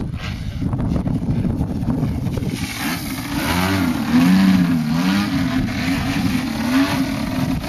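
50cc gasoline engine of an F3A aerobatic RC airplane running in flight, a steady drone that grows louder about three seconds in, its pitch wavering up and down.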